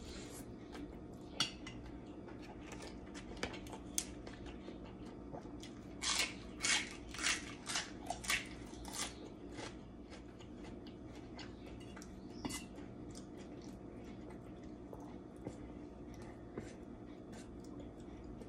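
A person chewing crunchy food close to the microphone, with a run of about six loud crunches between six and nine seconds in. A few sharp clicks of a metal spoon and fork against a metal plate are scattered through, over a faint steady hum.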